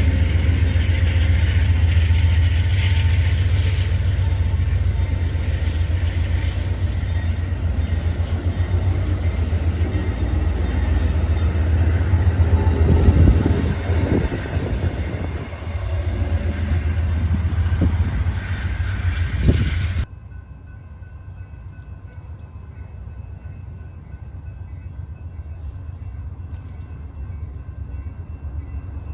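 Amtrak Cascades passenger train running by: a steady heavy rumble of locomotive and wheels on rail, with a couple of clanks in the middle. About two-thirds of the way through it drops suddenly to a quieter rail rumble with faint steady tones.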